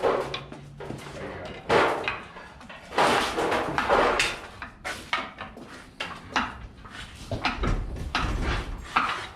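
Steel pry bars and metal parts clanking and knocking as a stuck part is levered at, with brief voices mixed in.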